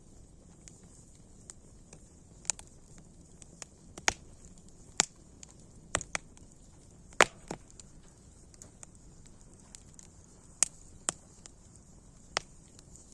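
Wood fire crackling: irregular sharp pops and snaps over a faint steady hiss, with the loudest pop about halfway through.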